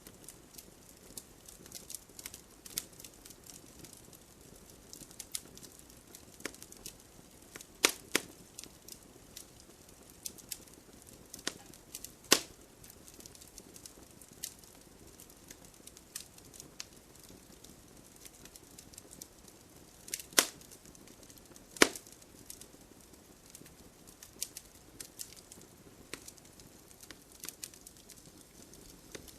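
Wood campfire crackling: a steady scatter of small snaps over a faint hiss of flame, with a handful of louder pops spread through.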